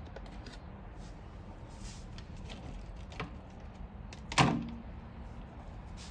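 A few light clicks, then one sharp metallic clunk a little over four seconds in that rings briefly: metal parts and tools being handled and set down during a lifter swap on an engine.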